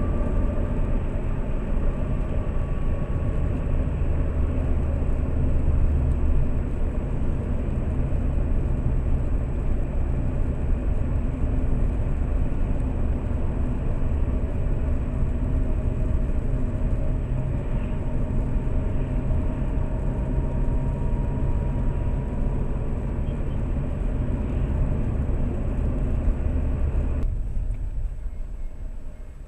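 Lada Priora's four-cylinder engine and tyre noise heard from inside the cabin while driving: a steady low rumble with engine tones slowly shifting in pitch. It drops away sharply near the end.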